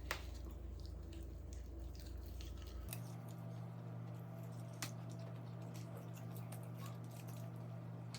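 Close-up eating sounds: chewing and handling of fried chicken and food packaging, with a few sharp clicks over a steady low hum.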